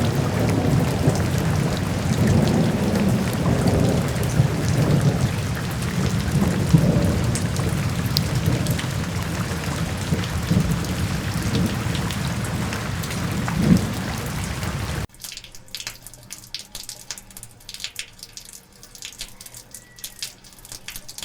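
Heavy rain with rumbling thunder; about two-thirds of the way through it cuts off suddenly to a much quieter patter of scattered drips and raindrops.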